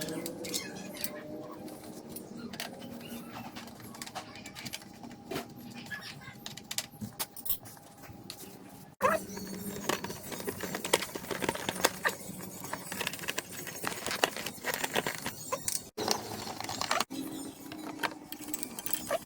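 Scooter engine idling quietly between revs, under many light clicks and rattles; the sound cuts off abruptly a few times.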